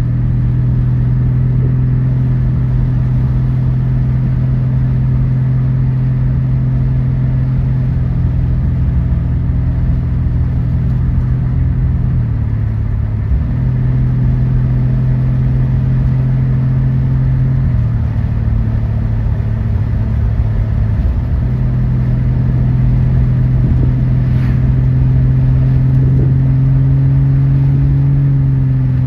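Car engine droning steadily on the road with a low, even hum, dropping briefly twice about halfway through as the throttle is lifted for gear changes, then pulling a little higher in pitch toward the end.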